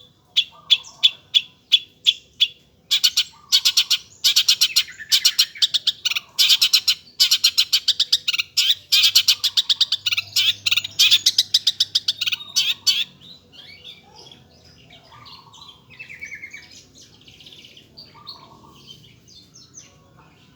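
Long-tailed shrike (cendet) singing: a run of sharp, evenly spaced chips, then a loud, fast, dense chattering song, dropping about two-thirds of the way through to quieter, scattered varied notes.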